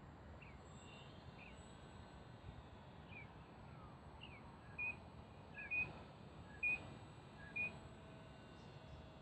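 Birds chirping: a run of short, quick chirps, with four louder ones about a second apart in the latter half, over faint outdoor background noise.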